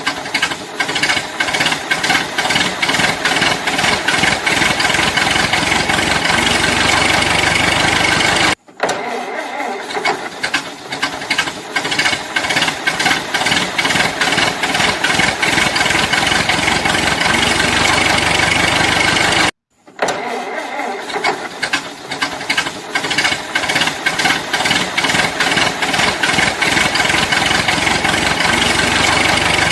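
Homemade mini tractor's small engine running, with a fast, steady knocking rattle. The sound breaks off for a moment twice.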